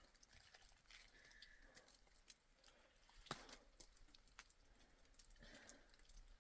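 Near silence with a few faint, scattered clicks and taps, the clearest about three seconds in.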